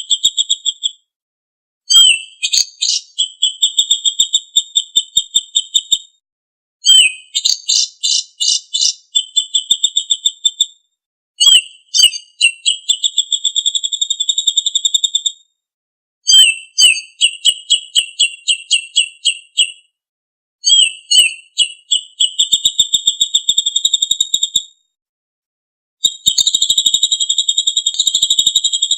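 A songbird singing high-pitched phrases about every four to five seconds, with short silences between. Each phrase opens with a few sharp chirps and runs into a fast trill held for two or three seconds.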